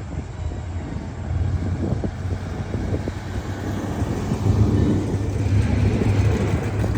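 A car engine running with a low rumble, which grows louder about halfway through.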